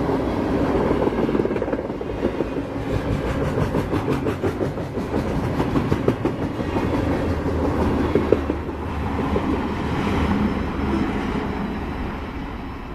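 Freight train cars carrying steel trash containers rolling past on the rails: steel wheels rumbling and clacking over the rail joints. The sound fades near the end as the last car passes and rolls away.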